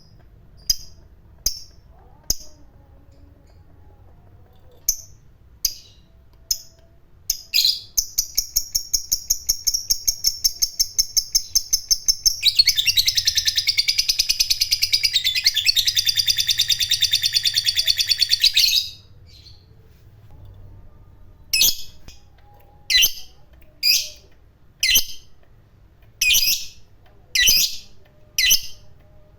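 Lovebird singing its long chattering 'ngekek' trill. Sharp single chirps lead into a rapid run of notes, about seven a second. This turns into a dense rattling trill lasting about six seconds near the middle, and then spaced chirps return.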